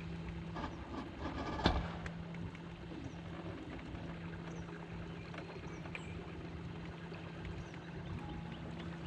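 Small fishing boat on the water: a steady low hum with a wash of water noise, and a single clattering knock on the boat about two seconds in.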